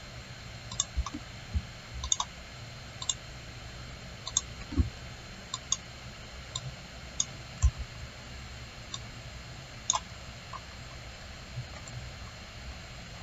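Computer mouse clicking at irregular intervals, some clicks in quick pairs, over a steady background hiss, with a few soft low thumps.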